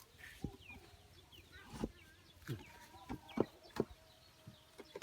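Chickens clucking faintly, with scattered sharp knocks and clicks about two to four seconds in.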